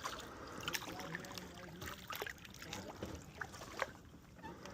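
Kayak paddle strokes in calm water, with water trickling and dripping off the blade and scattered small clicks and knocks.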